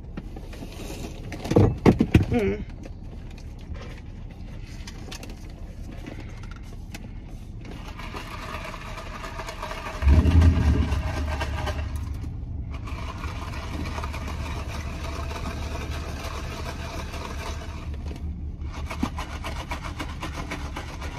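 A car's engine starts about halfway through with a sudden low rumble, then settles into a steady idle. A brief loud noise comes about two seconds in.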